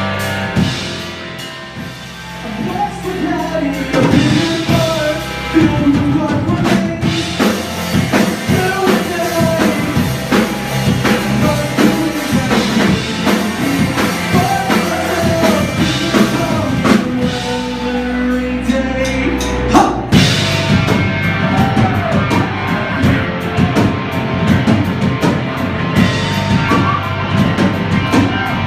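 A live rock band playing: a sung lead vocal over electric guitar, bass and a drum kit. The band thins out briefly about two seconds in and builds back up; around seventeen seconds the drums ease off under a held low note, and the full band comes back in with a loud hit about twenty seconds in.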